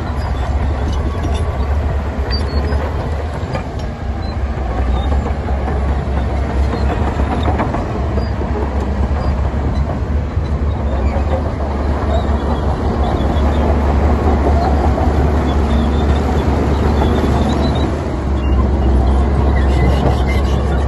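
Heavy diesel earthmoving machinery running steadily, a deep engine drone under a wide mechanical noise with scattered small clicks.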